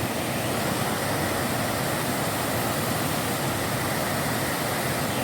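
Waterfall: the steady rush of falling water, an even roar with no breaks.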